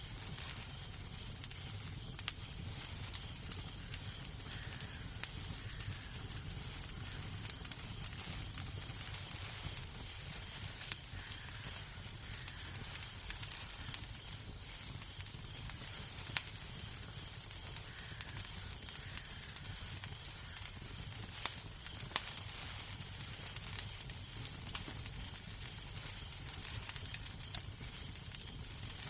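Wood fire crackling in a fireplace: scattered sharp pops over a steady hiss and a low rumble.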